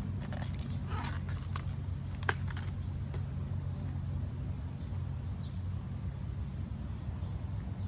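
Crisp crackling and snapping of outer cabbage leaves being peeled off by hand, with one sharp snap about two seconds in, over a steady low hum.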